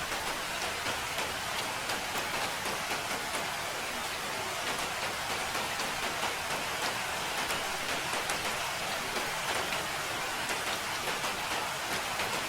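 Steady rain, a constant hiss with many individual drops ticking close by.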